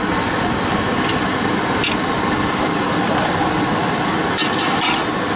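Steady road and wind noise of a motorcycle on the move, with a few short clicks about two seconds in and near the end.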